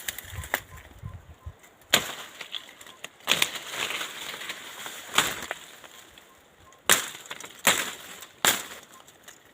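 Footsteps crunching on dry ground or brush, with sharp, irregular crunches roughly a second apart.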